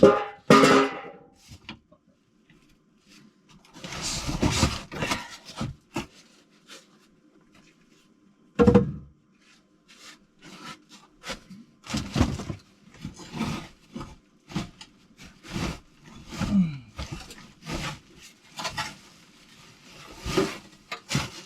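Scattered knocks, clicks and scraping of engine parts and tools being handled, with a faint steady hum underneath.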